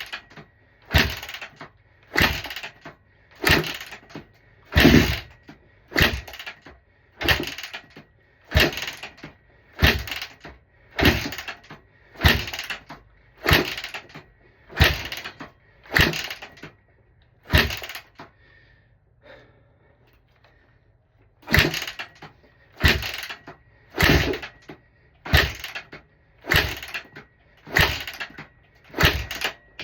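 Honda CRF150R's four-stroke single being kick-started over and over, about one kick every second and a bit, each kick a short burst of noise as the engine turns over without catching. The kicking stops for a few seconds about two-thirds of the way through, then starts again. The engine never runs: the bike won't start.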